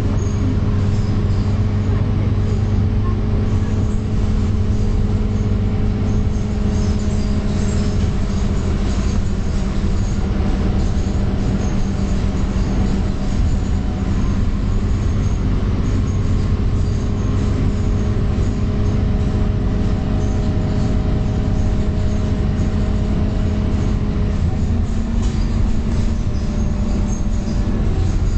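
Scania K230UB bus heard from inside the cabin while under way: engine drone and road noise at a steady pitch, shifting slightly near the end. The bus has a nine-litre five-cylinder diesel.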